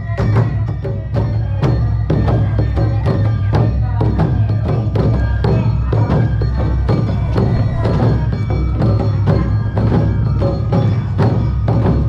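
Awa Odori festival music from a ren's narimono band: taiko drums and the kane hand gong beating a fast, steady rhythm, with shamisen and shinobue flute playing over it.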